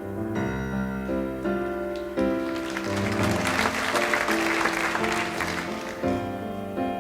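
Piano playing a slow run of chords as an intro, with audience applause coming in about two seconds in and dying away about a second before the end.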